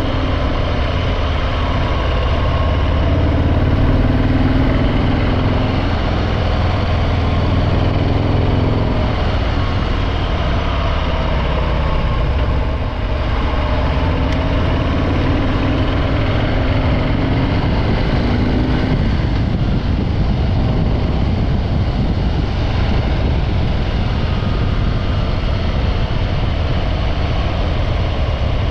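Harley-Davidson Breakout 114's Milwaukee-Eight 114 V-twin with stock exhaust, running as the bike is ridden, its pitch rising and falling with the throttle and briefly dropping about halfway through, over steady wind and road noise.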